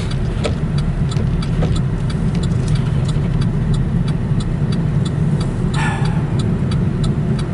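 Steady road and engine rumble heard inside a car cabin at low speed, with a regular light tick about twice a second from the windshield wipers running stuck at full speed. A short scraping sound comes about six seconds in.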